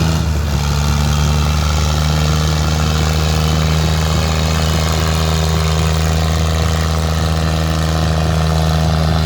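Fiat 480 tractor's diesel engine running loud and steady, its pitch holding almost constant.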